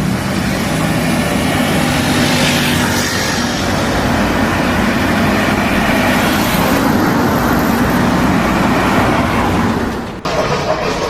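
Loud, steady noise of vehicles or heavy machinery, which cuts off suddenly near the end.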